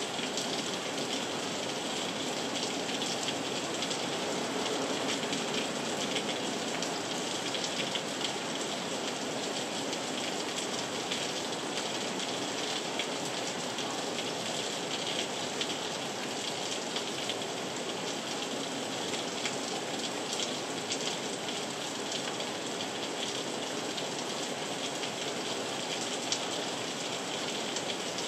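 Heavy rain falling steadily: a dense, even hiss dotted with the small ticks of individual drops.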